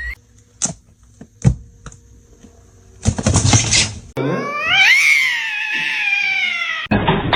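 A cat yowling: one long drawn-out call that rises and then falls in pitch for nearly three seconds, then cuts off abruptly. Before it come a few sharp taps and a second-long burst of hissing noise.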